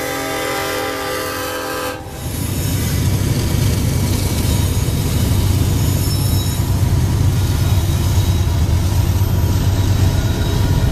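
Diesel freight locomotive's horn sounding a sustained chord that cuts off about two seconds in. It is followed by the loud, steady low rumble of the train rolling past.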